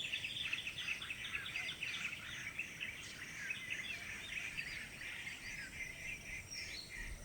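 Wild birds chirping in the jungle, a dense run of short, quick high calls that goes on without a break, over a faint background hiss.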